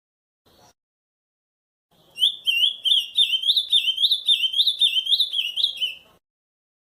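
Ultramarine grosbeak (azulão) singing one fast warbling phrase of the Camaquã song type. The phrase runs about four seconds, beginning about two seconds in, as a quick string of rising-and-falling whistled notes.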